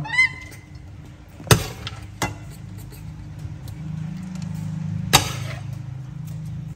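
A metal utensil knocks sharply against a nonstick frying pan twice, with a short ring, and once more lightly, as stir-fried greens are dished onto a plate, over a low steady hum.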